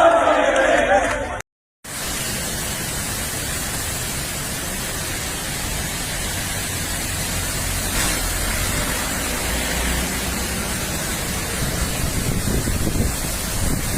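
A group shouting and cheering for about a second and a half, then, after an abrupt cut, a steady even hiss of heavy rain falling.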